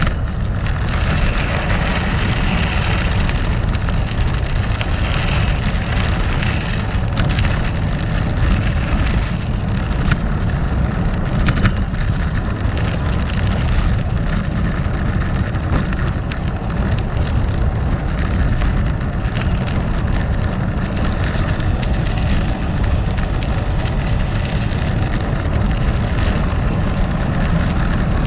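Gravel bike rolling over rough gravel: tyres crunching on loose stones with steady wind rumble on the microphone, and a few sharp knocks from the bike jolting over stones.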